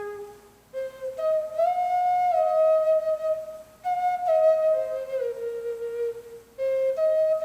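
Native American flute playing a slow melody of held notes in three phrases, each starting high and stepping down, with a brief pause for breath between phrases.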